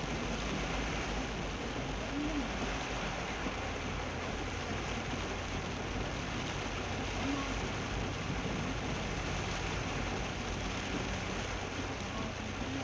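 Steady heavy rain pelting a moving car, with a low road and engine rumble underneath.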